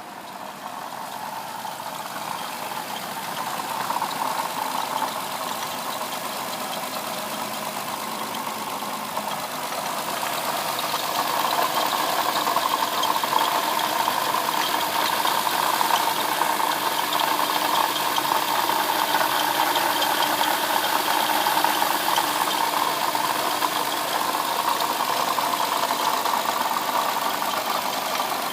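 2007 Lexus IS350's 3.5-litre V6 idling, with a rattling, knocking and squeaking from the front of the engine that the owner suspects is a bad water pump. The noise grows louder over the first twelve seconds or so, then holds steady.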